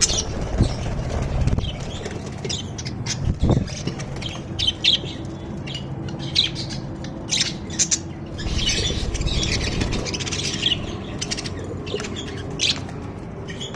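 Small caged parrots (lovebirds and budgerigars) chirping and squawking in short, sharp calls at irregular intervals, over a low steady hum.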